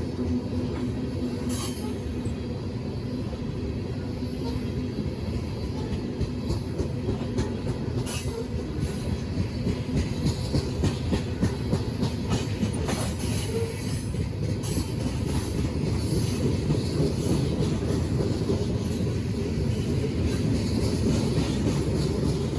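Train rolling past: a steady rumble of wheels on rail with scattered clicks, growing slightly louder toward the end.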